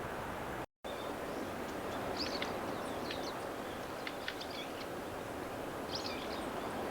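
Daurian redstart giving a string of short, thin, high calls, several in quick succession, over a steady rushing background noise. The sound drops out for an instant just under a second in.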